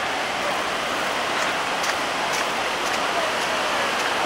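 Steady rushing of running floodwater, an even wash of noise with no break, and a few faint ticks over it.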